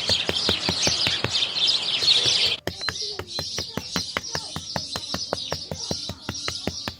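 Small birds chirping continuously, thick at first and then thinning abruptly partway through, over an even ticking about four times a second.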